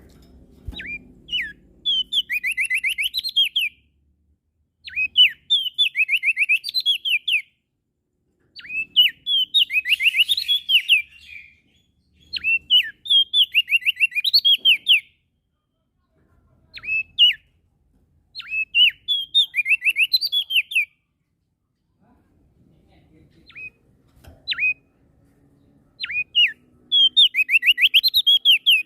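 Prenjak daun songbird singing: phrases of two to three seconds, each a fast run of high whistled notes sliding downward, repeated with short pauses, plus a few single notes between phrases.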